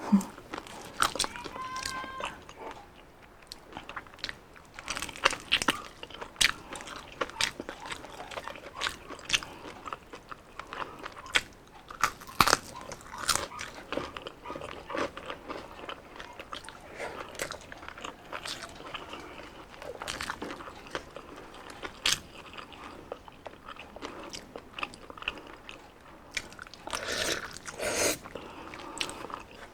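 Close-up mouth sounds of someone biting and chewing crispy deep-fried skin: irregular sharp crunches, with a louder run of crunching near the end.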